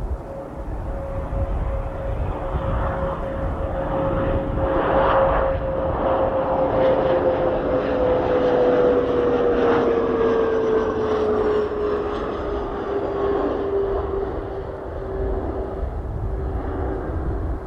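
An airplane passing by: its engine noise swells in the middle, and a steady whine drops in pitch as it goes past.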